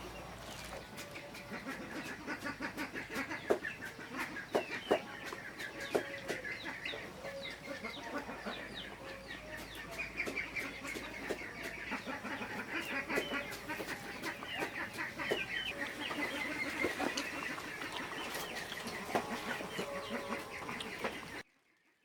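Chickens clucking and chirping, with scattered light knocks and clicks; the sound cuts off suddenly near the end.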